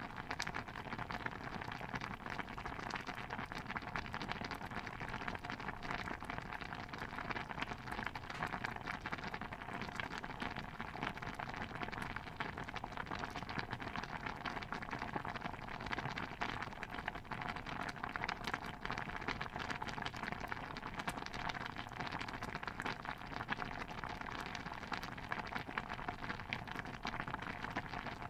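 A pot of stew bubbling steadily, with a dense stream of small pops and crackles that does not let up.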